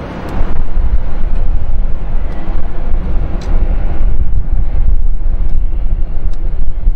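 Jet airliner engine noise, a loud steady rumble, with wind buffeting the microphone.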